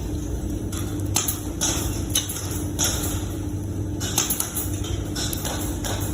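Irregular short scraping strokes, roughly one or two a second, over a steady low hum.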